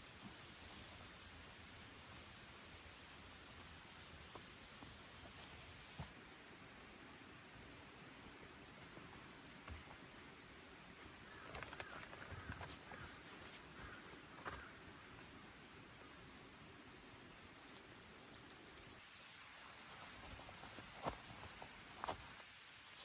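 A steady, high-pitched chorus of insects, with a few faint clicks near the end.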